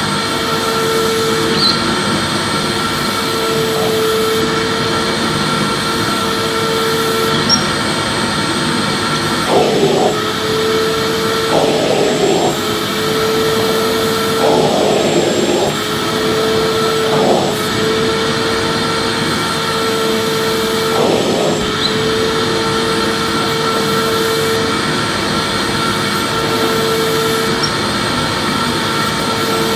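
Vacuum cleaner running steadily, its motor giving a constant whine over a rushing airflow noise, with a few brief surges in the middle.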